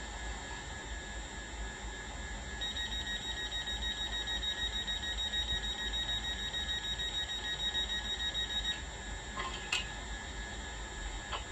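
Hitachi Class 800 model's DCC sound decoder playing a high electronic warning beep that pulses rapidly for about six seconds, over the steady hum of the train's idling sound. It stops abruptly and is followed by a few short clicks.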